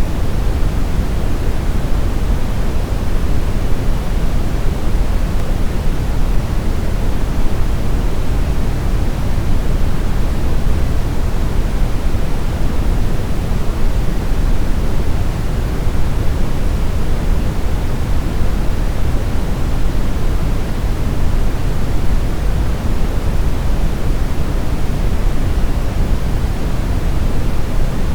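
Steady, unchanging brown noise: a continuous deep rumbling hiss, strongest in the bass and falling away in the highs.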